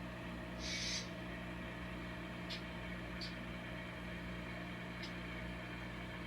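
Steady low mechanical hum, with a short hiss about a second in and a few faint clicks.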